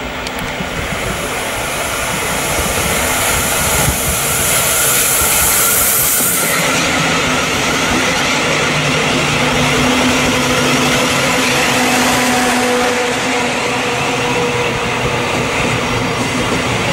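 Thameslink Class 700 electric multiple unit passing close by. It grows louder as it approaches, with a high hiss that cuts off about six and a half seconds in, then the steady rush of the carriages running over the rails with a low hum beneath.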